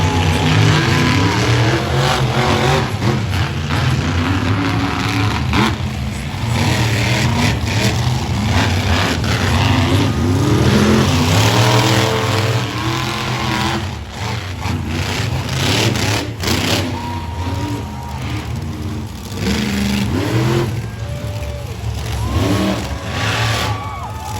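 Monster truck engines running and revving, their pitch rising and falling repeatedly.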